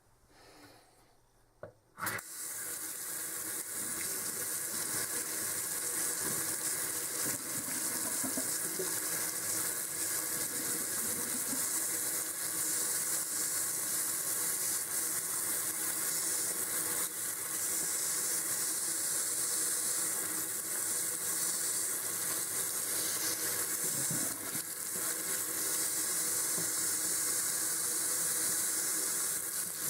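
A steady rushing hiss like water running from a tap, starting about two seconds in and going on evenly.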